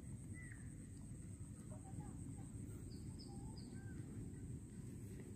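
Faint birds chirping, with a quick run of three short high falling chirps about three seconds in, over a steady low rumble and a constant high whine.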